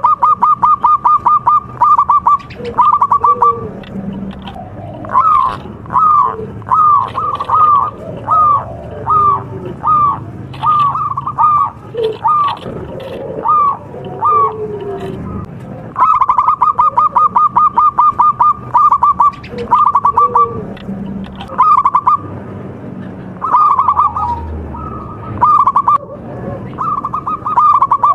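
Zebra dove (perkutut) singing loudly. Rapid runs of short, even coos open its phrases at the start and again about halfway through, each followed by spaced single and paired coos.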